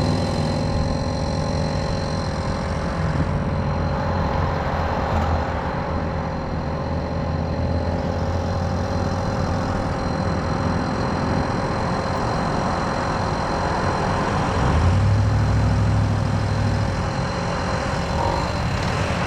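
Tomos moped's small two-stroke engine running steadily while riding, growing louder for about two seconds near the end.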